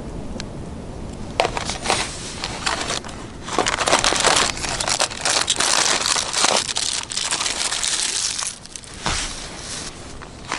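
Crinkling and rustling in irregular bursts, starting about a second and a half in, busiest in the middle, and dying down near the end.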